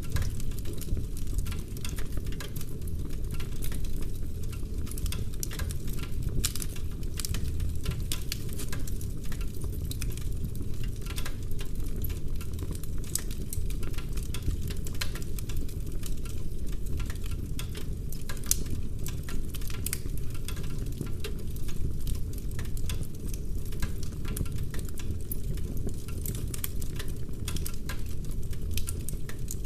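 Wood fire burning in a fireplace, logs crackling and popping in quick irregular clicks over a low, steady rumble.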